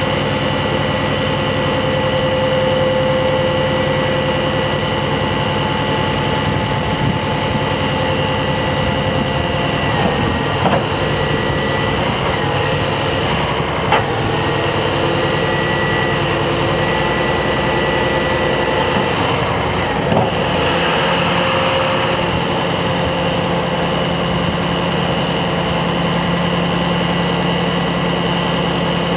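Scania R480 truck's six-cylinder diesel engine running steadily at idle, with a few short knocks or clicks.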